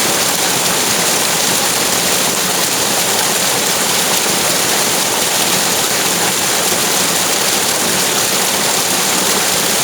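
Running water rushing steadily outdoors, an even, unbroken hiss with no splashes or breaks.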